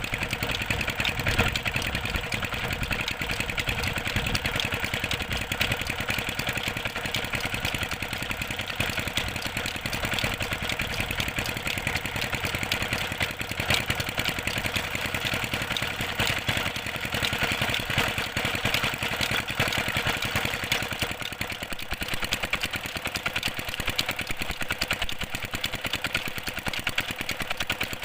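Diesel engine driving a tube-well water pump, running steadily with a fast, even beat.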